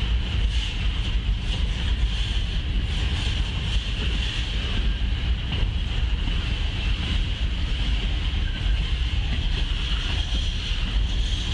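Refrigerated boxcars of a CSX freight train rolling steadily past. Their wheels on the rails make a continuous low rumble, with a steady high-pitched whir running alongside it.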